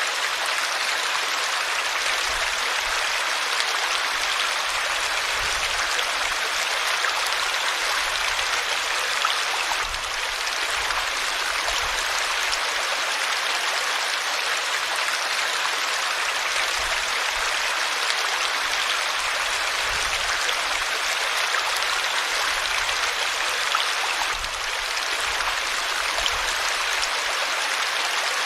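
Flowing river water: a steady, even rushing, dipping slightly for a moment twice.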